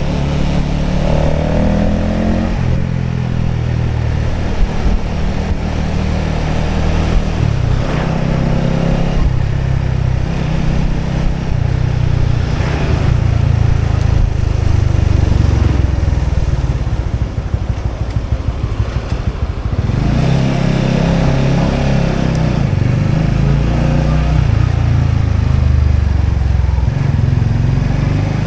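Motorbike engine running while riding, its pitch rising and falling with speed, dropping to a slow low-rpm putter for a few seconds past the middle before picking up again.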